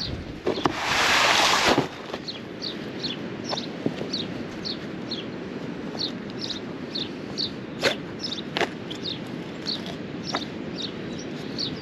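A small bird chirping over and over, one short high note falling in pitch, about twice a second. Near the start a loud rushing burst of noise lasts about a second, and a few sharp clicks come later.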